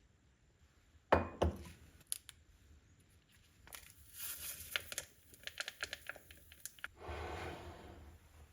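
Two sharp knocks, then packaging being crinkled and torn open in a long run of crackling, ending with a brief rustling swell.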